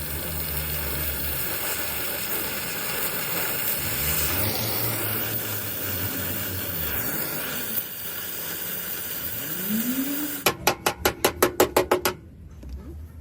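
Steady hissing workshop noise over a low hum. Near the end comes a quick run of about a dozen sharp knocks, about eight a second, that stops suddenly.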